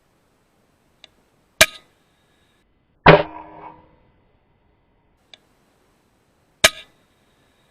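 Three sharp, loud cracks with dead silence between them. The first and last are followed by a high ringing, and the middle one is heavier and dies away over about a second. Two faint clicks come before the first and last cracks.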